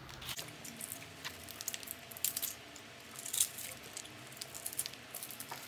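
A person eating crispy fried duck close to the microphone: biting and chewing, with irregular crunching clicks.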